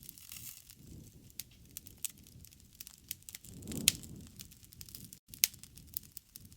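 Wood fire crackling, with irregular sharp pops and snaps over a soft low rumble of the flames; one loud pop about four seconds in and another a second and a half later.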